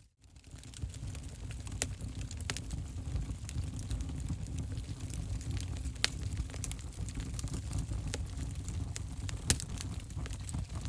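Wood fire burning in a fireplace: a low, steady rumble of flames with scattered sharp crackles and pops, the loudest about nine and a half seconds in. The sound drops out for a split second at the very start.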